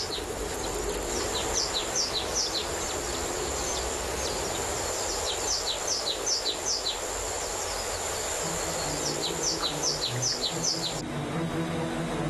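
Songbird singing phrases of several quick, high whistled notes, each sliding downward, repeated every few seconds, over a steady high-pitched insect sound. Both stop suddenly near the end.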